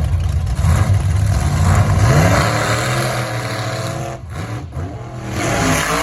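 Mud truck engine running hard under throttle, its pitch climbing about two seconds in as it revs up.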